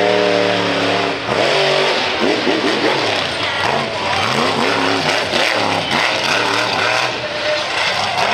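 Monster truck engine revving hard, its pitch rising and falling over and over as the throttle is blipped on and off.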